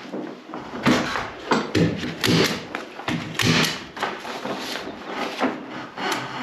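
Irregular knocks and thuds of wooden framing pieces being handled and pushed into place, about one knock every second or so.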